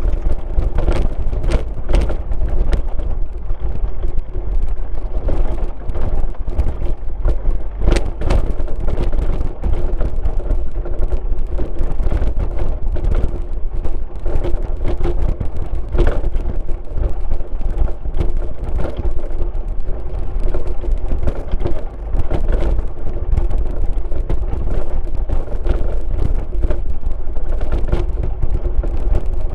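Car driving along a rural road: steady engine and tyre rumble with a constant drone, broken by frequent short knocks and rattles as the car goes over bumps.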